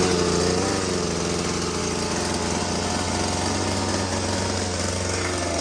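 Small engine of a homemade boat running steadily just after starting, its speed settling slightly in the first second.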